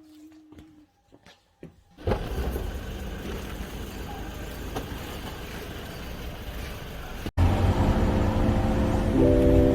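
Steady motor-vehicle and road noise with a low hum, starting suddenly about two seconds in after near silence, briefly cut off about seven seconds in, then resuming louder.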